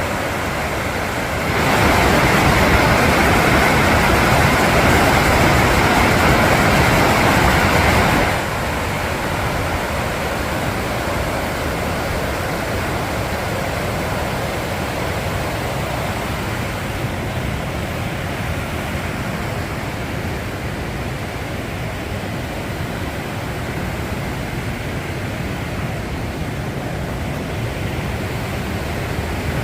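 Waterfall rushing as a steady, loud roar of falling water. It grows abruptly louder about a second and a half in and drops back just as suddenly about eight seconds in.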